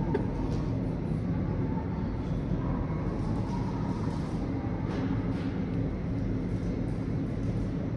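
Steady low rumble of car engines idling, even throughout, with no revving.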